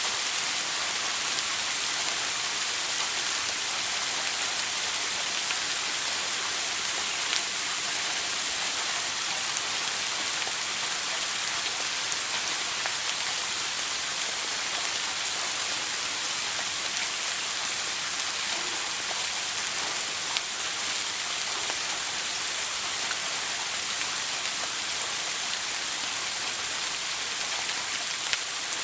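Running shower: water spraying and pattering down in a steady hiss, with fine droplet ticks.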